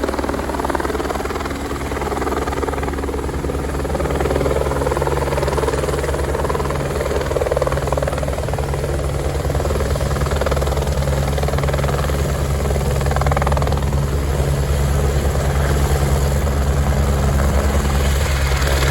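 Twin Squirrel helicopter running steadily, its rotor and engine sound continuous, growing a little louder about four seconds in.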